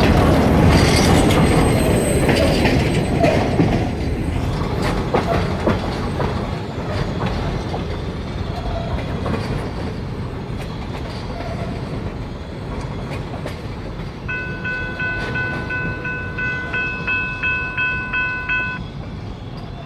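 Freight train's cars rolling past with wheels clicking over rail joints, the rumble fading as the end of the train goes by. Near the end a railroad crossing bell rings at about two strikes a second for a few seconds, then stops.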